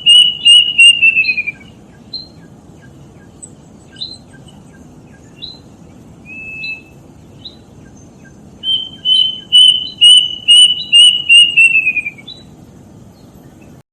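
Kedasih cuckoo singing: a run of loud, evenly repeated whistles that quicken and slide down in pitch at the end, heard twice, with single short upslurred notes in between.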